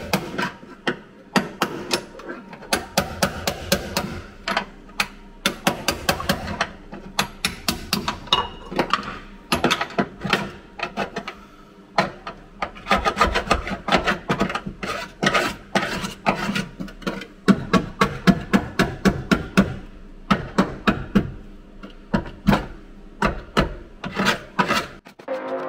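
Hand tools striking and scraping on metal: quick runs of sharp knocks, several a second, with rasping between them, while rust is worked off the car's corroded floor around the seat mount.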